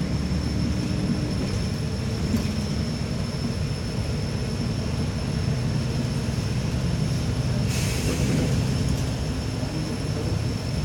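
Inside a moving city bus: steady engine and road rumble with a constant high whine, and a brief hiss about eight seconds in.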